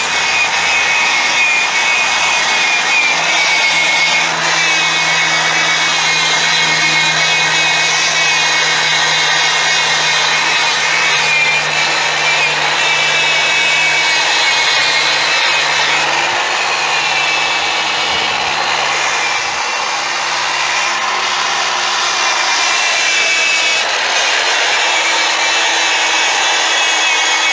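Electric drill spinning a foam polishing pad against a plastic headlight lens: a steady motor whine over a rubbing hiss, its pitch wavering slightly. It is buffing chrome polish into the lens until the polish is worked dry.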